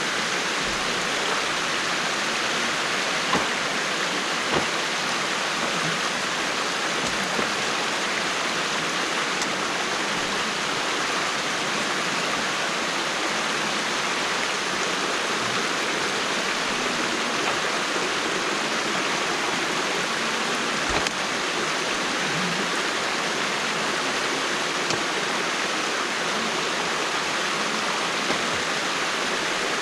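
Water rushing steadily through a breach in a beaver dam, with a few brief knocks.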